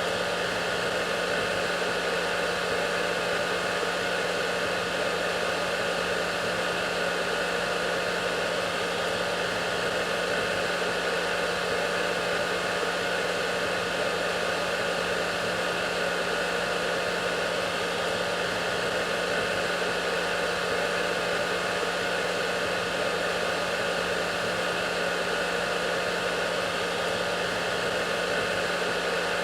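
Hair dryer running steadily: an even rushing of air with a steady motor hum underneath, unchanging throughout.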